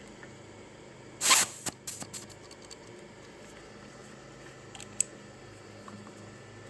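A short burst of hiss about a second in, then a scatter of light clicks and rattles. These fit a compression tester's gauge being vented after the cylinder 2 reading and its hose and fittings being handled. Two more small clicks come near the end.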